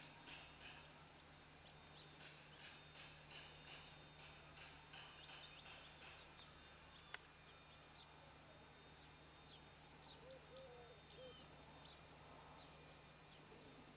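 Near-silent outdoor ambience with faint small-bird chirping: short high chirps repeat about twice a second, then thin out into scattered chirps and a brief low warble. A single sharp click comes about seven seconds in.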